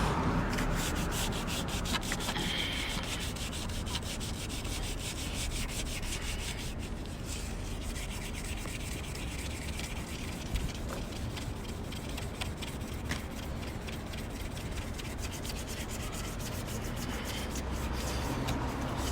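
Sandpaper rubbing over a metal car wheel rim in steady, continuous, scratchy strokes, taking the old glossy finish down so primer will stick.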